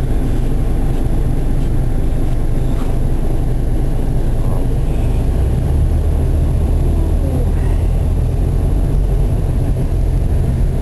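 Steady low rumble of a car's engine and road noise heard from inside the moving car, with a deeper drone coming up about halfway through.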